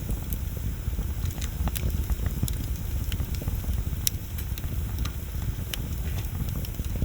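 Wood bonfire burning with a steady low rumble, with irregular sharp crackles and pops of burning wood. The loudest pop comes about four seconds in.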